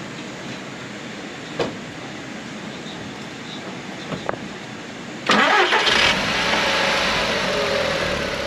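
Two sharp clicks, then about five seconds in a car engine is cranked by the starter and catches within a second, settling into a steady idle. The idle is rough from an engine misfire.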